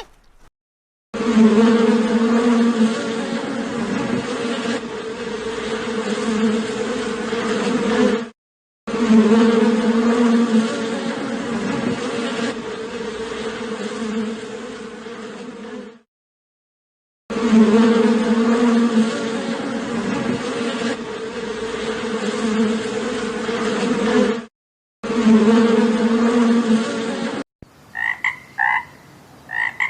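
Bee buzzing in a steady drone, in four clips cut one after another with short silences between. Near the end, a frog croaking in short repeated calls.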